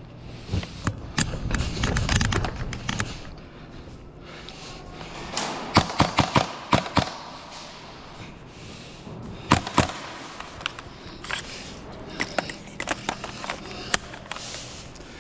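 Indoor airsoft gunfire: sharp gas-blowback shots and BB impacts in short bursts, a quick run of about six cracks midway and scattered single shots later, with low thuds of movement in the first few seconds.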